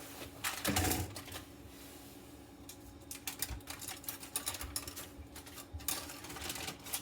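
Irregular light clicks and crackles, thickest about halfway through, over a steady low hum.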